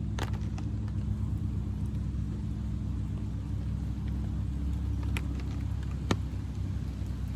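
A steady low engine hum with a few sharp taps over it, the loudest about six seconds in.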